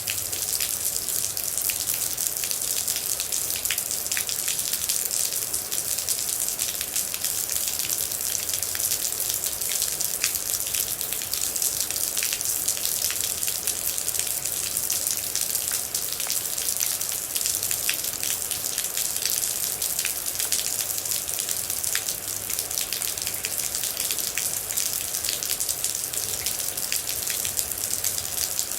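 Steady rain, with a constant hiss and many separate drops striking close by.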